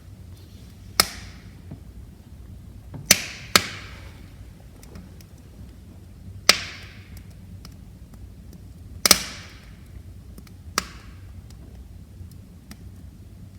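Wood fire in a fireplace crackling: six loud sharp pops, two of them in quick succession a few seconds in, several trailing off in a brief hiss, with fainter ticks between them over a steady low rumble of the flames.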